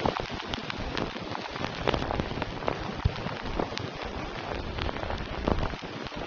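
Steady rain falling on a surface, with many separate drops striking sharply through the even hiss.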